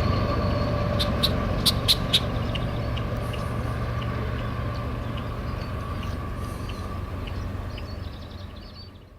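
Freight train rumbling past and slowly receding, a steady low rumble with a faint ringing tone, with a handful of sharp clicks about a second in; the sound dies away near the end.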